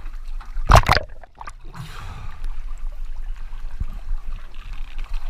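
Water sloshing close to the microphone, with one loud splash just under a second in.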